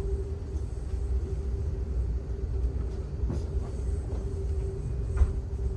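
Amtrak Auto Train car riding along the rails: a steady low rumble of the wheels on the track with a constant hum, and two short knocks, about three seconds in and near the end.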